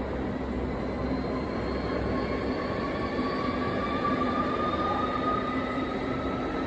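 Pendolino high-speed electric train running past a platform: a steady rumble of wheels on rails, with a faint whine that slowly rises in pitch.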